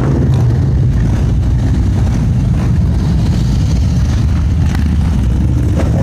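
Harley-Davidson V-twin motorcycle engine running steadily on the road, with strong, even low-pitched sound and no clear revving.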